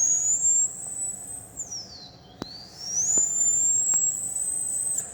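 A person imitating a diesel truck's turbocharger whistle with the mouth: a high whine that rises, holds, then falls away, done twice.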